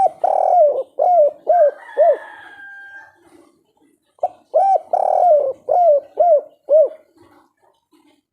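Spotted dove (derkuku) singing its 'kuk 3' song twice. Each phrase has a drawn-out coo followed by three short coos, with a pause of about two seconds between the phrases. A faint steady whistle-like tone sounds briefly near the end of the first phrase.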